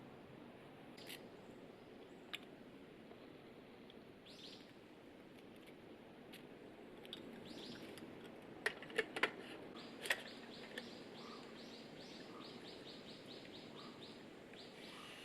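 A wild bird calling, ending in a quick run of short high notes repeated about five times a second, over a steady outdoor hush. A few light clinks of camp cookware or coffee gear, two of them close together about nine seconds in.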